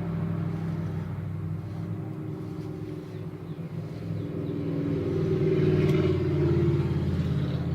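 A low, steady motor hum that swells slightly past the middle.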